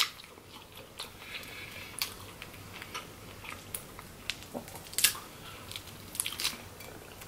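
Close-miked chewing of sauce-coated shrimp: irregular wet mouth clicks and smacks, a few of them sharper than the rest.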